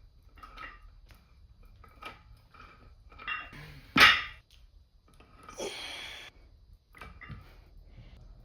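Weights knocking during a traps and forearms workout. There are scattered light knocks, one sharp loud clank about four seconds in, and a short noisy burst soon after.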